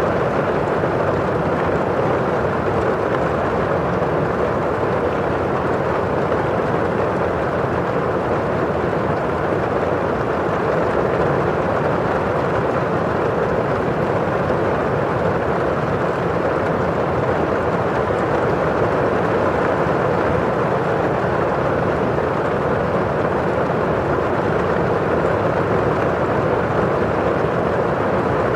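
Steady rain on window glass and falling outside, an even, unbroken wash of sound.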